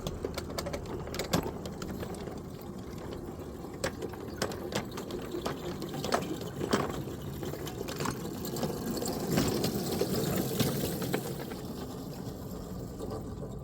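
Small electric ride-on locomotive running on 7-1/4 inch gauge track, a steady mechanical running noise broken by many irregular clicks and clanks.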